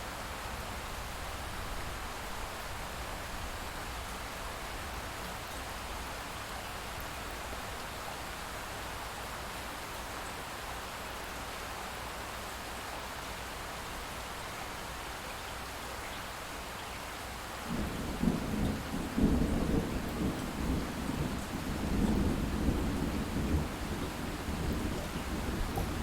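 Steady light rain, then about two-thirds of the way in a long roll of distant thunder starts and keeps rumbling to the end.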